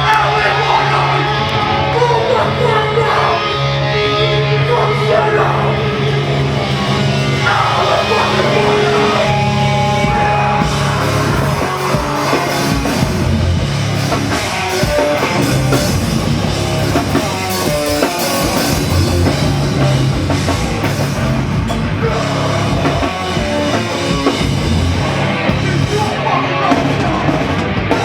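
Loud, heavy rock music with drums, guitar and a singing voice, going without a break.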